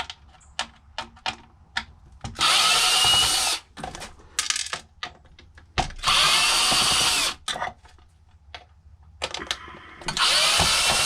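Cordless drill-driver backing screws out of a karaoke machine in three short runs of about a second and a half each. Light clicks and taps of handling come between the runs.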